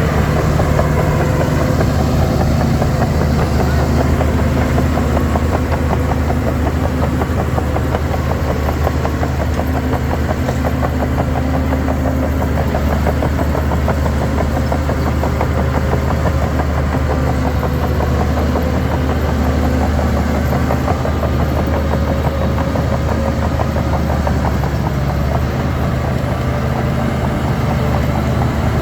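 Diesel engine of a Shantui DH17 C3 bulldozer running steadily, with a fast, even pulse and no change in speed.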